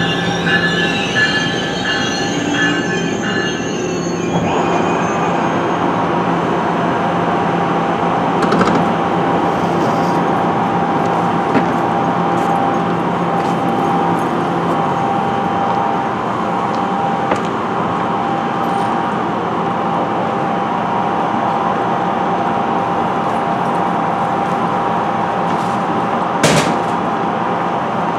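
NJ Transit train led by an ALP-45DP locomotive easing to a stop, with high tones repeating about twice a second for the first few seconds, then standing at the platform with a steady mechanical hum. A single sharp knock comes near the end.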